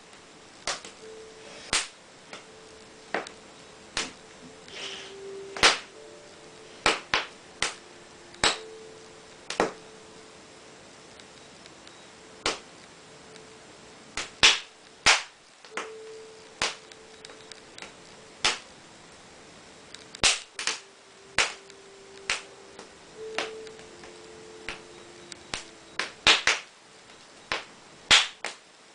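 Wood fire burning in a fireplace, crackling with sharp irregular pops about once a second. A faint low whistle comes and goes beneath the pops.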